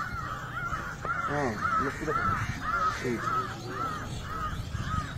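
A bird calling over and over, a short arched call a little over twice a second, with low voices murmuring underneath.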